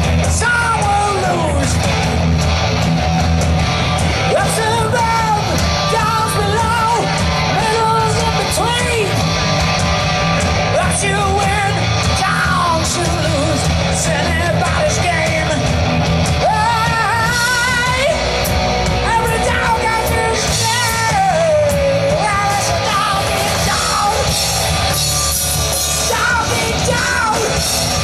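Live rock band playing loud, with a singer belting and wavering on held notes over distorted electric guitar, bass and drums.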